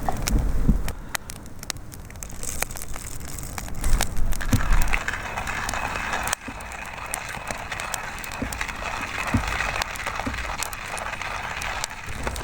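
Wood fire crackling and popping with scattered sharp snaps, a steady hiss joining in about four and a half seconds in.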